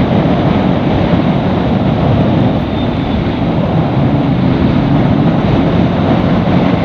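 Bajaj Pulsar NS200's single-cylinder engine running steadily at road speed, mixed with a heavy rush of wind and road noise over the microphone.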